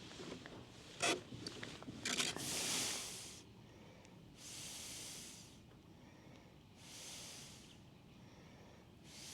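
A few clicks and rustles of handling gear, then slow, regular breaths close to the microphone: a noisy exhale about every two and a half seconds.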